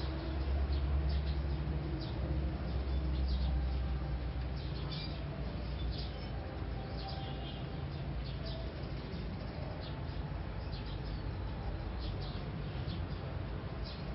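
Small birds chirping: short, high chirps repeated irregularly throughout, over a steady low rumble that is heavier in the first few seconds.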